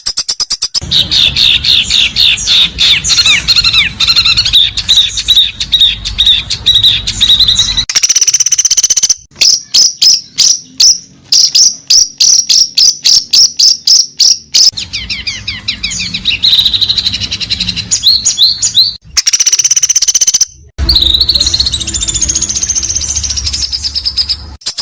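Songbird song played as training material for fighter birds such as the white-rumped shama: loud whistled phrases and rapid chattering trills, with a middle stretch of sharp notes repeated about three times a second. It breaks off suddenly a few times, as between spliced recordings.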